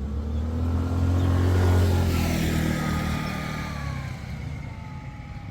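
A motor vehicle drives past close by. Its engine rumble swells to a peak a little under two seconds in, then drops in pitch and fades as it moves away.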